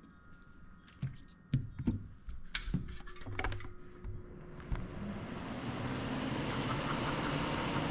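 A run of sharp clicks and taps of tools and parts being handled at a soldering bench, then a steady rushing noise that builds up from about four to five seconds in.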